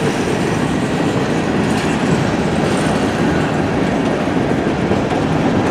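Freight cars of a long mixed freight train rolling past at steady speed: a continuous rumble with wheels clacking over the rail joints.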